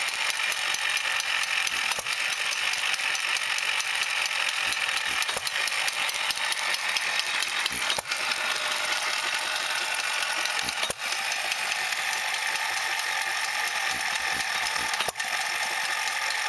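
Vintage stationary engine running, a fast, steady mechanical clatter with a few brief dips.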